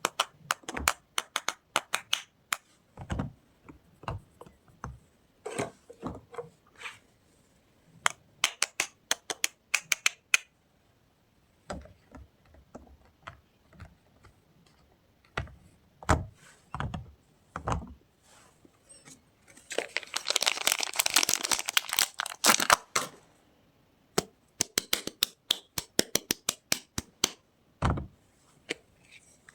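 Soap packaging being handled and unwrapped by hand: scattered sharp clicks, taps and crackles, with a dense stretch of rustling lasting about three seconds around two-thirds of the way through.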